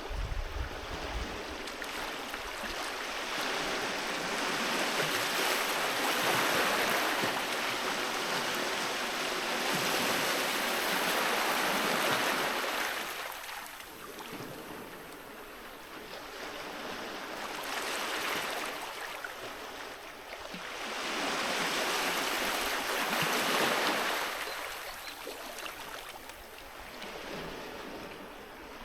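Waves breaking and washing up a beach, a steady hiss of surf that swells and ebbs, with the biggest surges in the first half and again late on.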